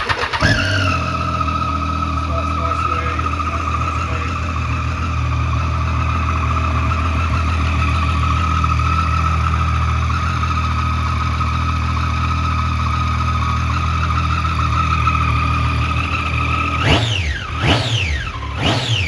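Triumph Street Triple R 675 inline three-cylinder engine, breathing through an aftermarket Arrow exhaust, firing up and settling into a steady idle. Near the end it is blipped twice, the pitch rising and falling with each rev.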